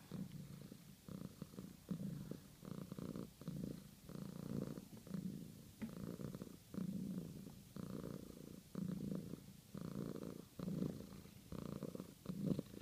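Cat purring: a low rumble that swells and fades with each breath in and out, about once a second.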